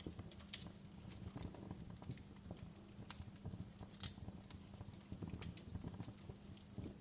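Wood fire crackling in a fireplace: irregular sharp pops and snaps over a steady low rumble of flames, with one louder pop about four seconds in.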